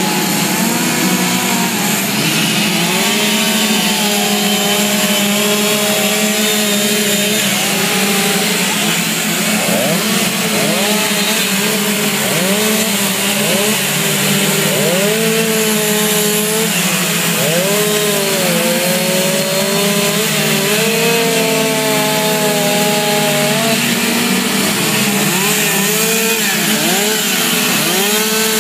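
Chainsaw carving wood, running without a break. Its engine pitch keeps rising and falling as the throttle is opened and eased off.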